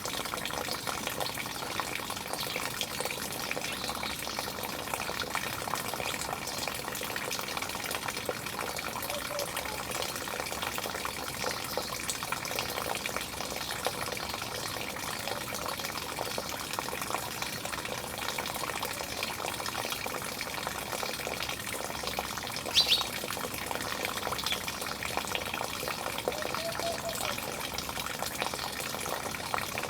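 Steady rushing of running water throughout, with a few faint short chirps and one brief, louder sharp call about three quarters of the way through.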